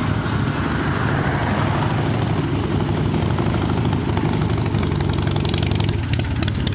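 Motorcycle engine running steadily, a low even drone with a rushing haze above it.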